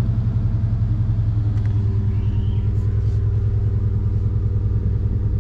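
2021 Dodge Charger SRT Hellcat Redeye's supercharged 6.2-litre Hemi V8 idling at about 1,000 rpm, a steady low running sound with an even pulse, heard from inside the cabin.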